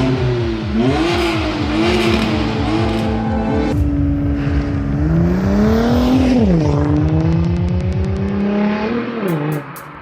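Audi TT RS's 2.5-litre five-cylinder engine revving, its pitch rising and falling several times, over background music. The engine drops away shortly before the end, leaving quieter music.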